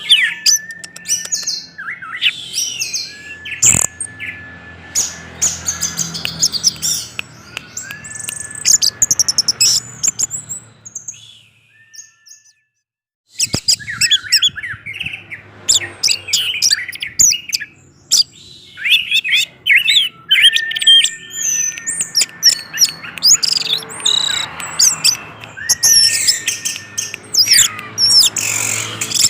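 Orange-headed thrush (Geokichla citrina) singing a loud, fast, varied song of chirps, whistles and trills, breaking off for about two seconds some twelve seconds in before it resumes.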